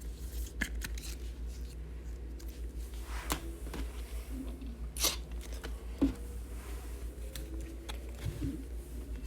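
Trading card packs and cards being handled: scattered light rustles and clicks of foil wrappers and card stock, with sharper ticks about five and six seconds in, over a steady low hum.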